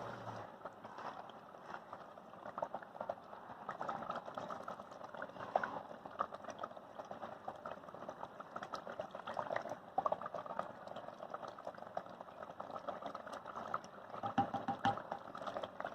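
Food cooking in a pan, bubbling and sizzling with many small irregular crackles.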